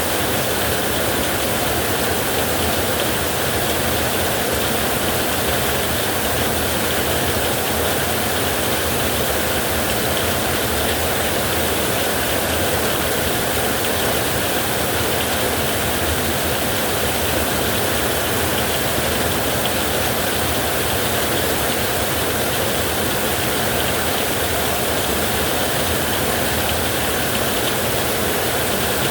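Heavy rain falling steadily with a low rush of wind, an even, unbroken wash of noise.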